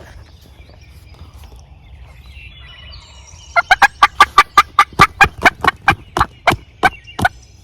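A turkey call worked close by in a long yelping series: about seventeen loud, sharp notes over nearly four seconds, starting about three and a half seconds in and spacing out slightly toward the end, calling to roosted gobblers.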